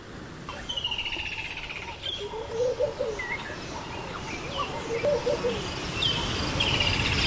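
Several wild birds calling: high chirps and fast descending trills, with a low warbled phrase twice, fading in at the start.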